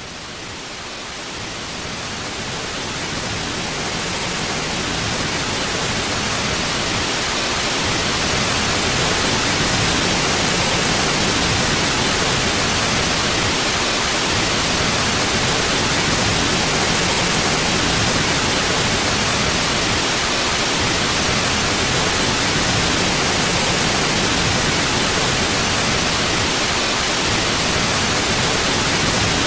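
Steady hiss of white noise for sleep and masking, an even rush with no tones or pattern. It fades in over the first several seconds, then holds level.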